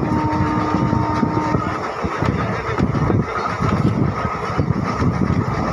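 Passenger train running at speed, heard from an open coach doorway: a steady rumble of wheels on the rails mixed with rushing wind, with a brief steady tone during the first second and a half.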